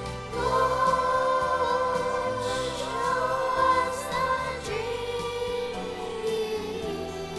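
Choir singing with instrumental accompaniment: voices come in about half a second in on long held notes and keep singing over the backing.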